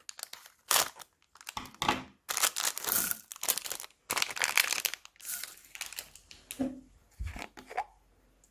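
Slime and plastic bags being handled: irregular bursts of crinkling and tearing with short pauses between them, dying away near the end.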